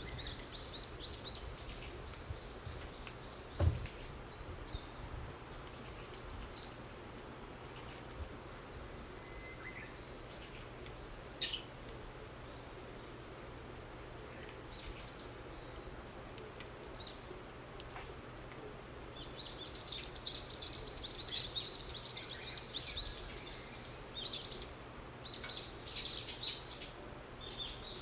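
Small birds chirping, briefly at first and then in a dense run through the second half, over a steady low background hum. Two short sharp pops stand out, the louder about eleven seconds in.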